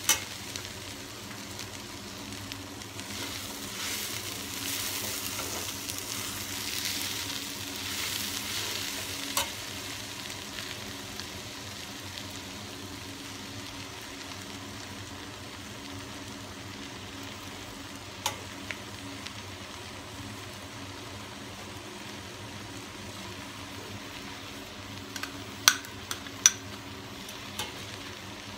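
Chopped vegetables sizzling in a stainless steel pot as they are stirred with a metal slotted spoon. The sizzle is louder over the first third. A few sharp clinks of the spoon against the pot come through, a pair of the sharpest near the end.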